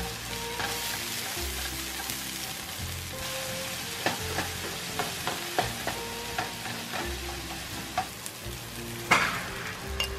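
Diced onion, garlic and tomato sizzling in oil in a nonstick frying pan, stirred with a slotted spatula that taps and scrapes against the pan several times in the middle. Near the end there is a louder burst of sizzling as beaten egg is poured into the hot pan.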